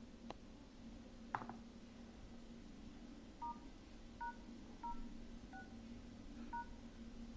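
Phone keypad dialing tones: five short two-note beeps, spaced unevenly about a second apart, after two sharp clicks near the start, over a faint steady hum.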